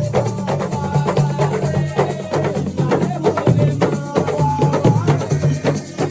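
Assiko music played live: a dense, fast hand-percussion rhythm with rattles and sharp wooden-sounding strikes over a steady low pitched line, with pitched melodic lines above.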